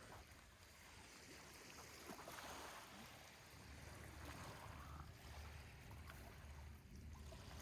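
Faint water lapping at a lake shore, with a low pulsing rumble underneath.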